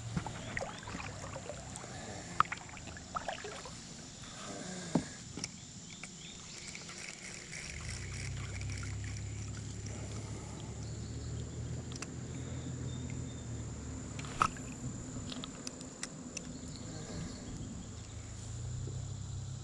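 Angler's fishing kayak on a river: a few sharp knocks and clicks of gear against the hull over a steady background hiss. A low steady hum comes in about eight seconds in, fades, and returns near the end.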